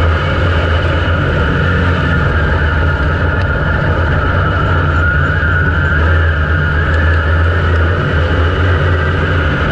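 IMCA dirt modified race car's V8 engine running loud and continuous under power, heard on board, its pitch wavering slightly.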